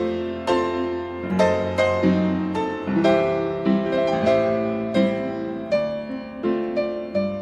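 Piano music: chords struck about twice a second over sustained low notes.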